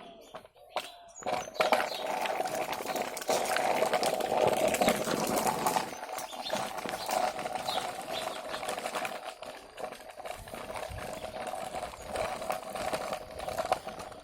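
A small motor whirring steadily with a rapid mechanical rattle. It starts about a second and a half in and eases off a little after about six seconds.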